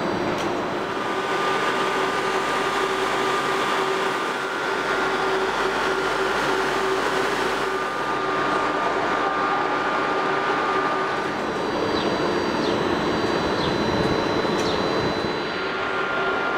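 Steady hum and rumble of electric passenger trains standing at a station platform, with held tones over a noisy background. A few short high squeaks come near the end.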